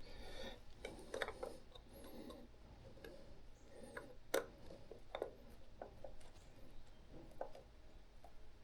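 Faint, irregular metallic clicks and ticks of a screwdriver and small screws being run in snug on an S&S Super E carburetor, with a couple of sharper clicks near the middle.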